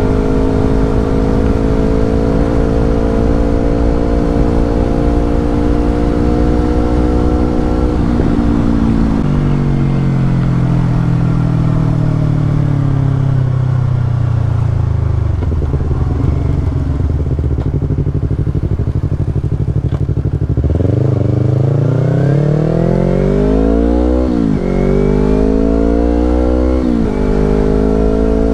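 Yamaha R25 parallel-twin engine through a Brave aftermarket exhaust, being ridden. It holds high revs, shifts, and the revs fall away as it slows and runs low for a few seconds. About two-thirds of the way in it accelerates hard, the pitch climbing through the gears with two quick upshifts.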